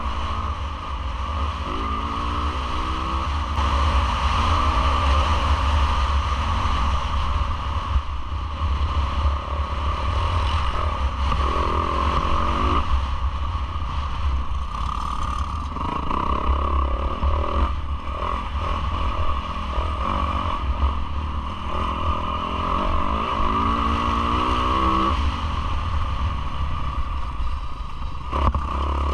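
Yamaha YZ450F four-stroke single-cylinder motocross engine at race pace, revving up and falling back again and again as the rider works the throttle and gears, over a steady low rumble, with clatter from the bike over the rough track.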